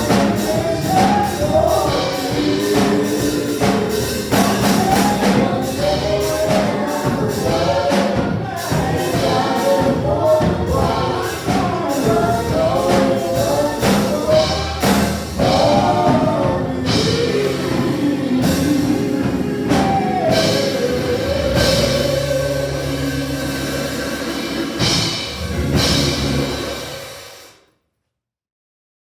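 Gospel praise music: a choir and singers over a band with a steady percussive beat. It fades out near the end into silence.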